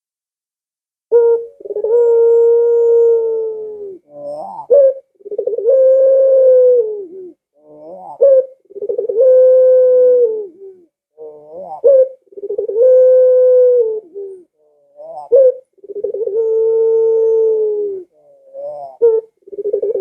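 Puter pelung dove, a domestic ringed turtle dove, cooing over and over. Each phrase is a short wavering note followed by one long, level coo, about five phrases in all, starting about a second in.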